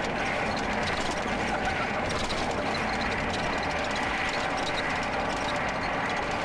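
Steady rush of road and wind noise with continual fine rattling, from a John Deere riding lawn mower being towed at speed behind a vehicle.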